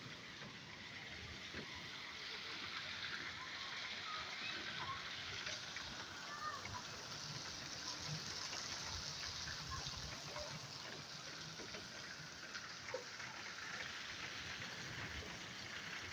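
Heavy rain falling steadily: a continuous, even hiss of rain on surfaces.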